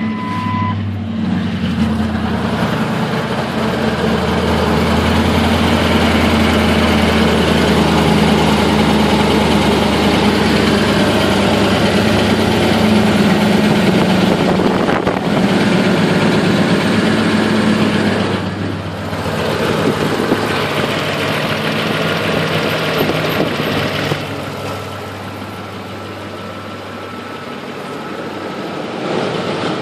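Ford 5.4-litre three-valve V8 idling just after a cold start, with the rattle of its timing chain and cam phasers; the owner is sure of a loose passenger-side timing chain and thinks the cam phasers are possibly shot. The engine note drops and gets quieter about 18 seconds in, and again about 24 seconds in.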